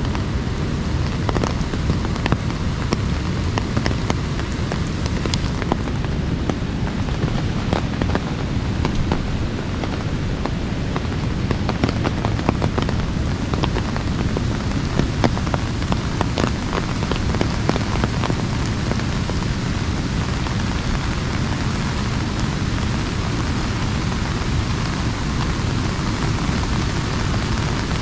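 Rain pattering on an umbrella overhead: a steady hiss of rain dotted with many sharp individual drop hits, over a constant low rushing.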